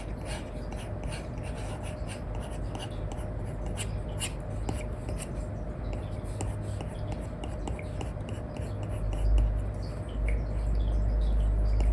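Stylus nib scratching and tapping on an iPad screen covered with a paper-like film, in short irregular strokes, over a steady low hum that grows louder near the end.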